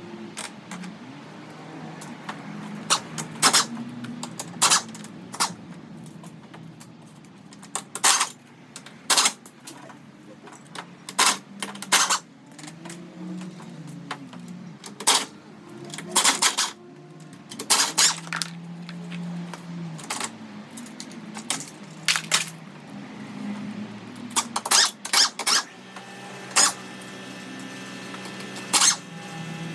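Irregular sharp metal clinks and knocks of tools and parts being handled during car dismantling, over a low wavering hum.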